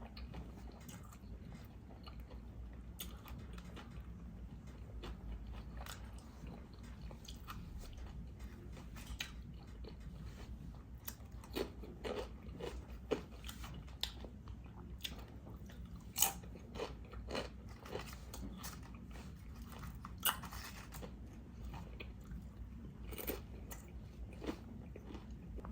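Close-miked eating: a person biting and chewing food, with irregular sharp crunches, over a steady low hum.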